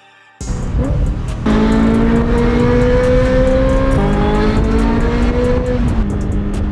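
Ferrari 355 F1's V8 with a Tubi exhaust cuts in suddenly and accelerates through the gears. Its note climbs steadily in each gear, with quick upshifts about four and six seconds in where the pitch drops, then climbs again.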